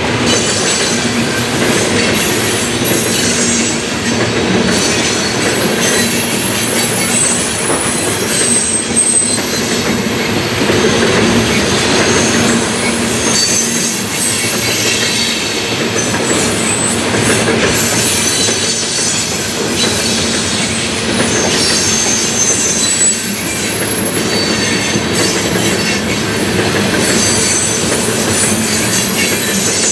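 CSX coal train's cars rolling past close by: a steady rumble of wheels on rail, with short high wheel squeals coming and going.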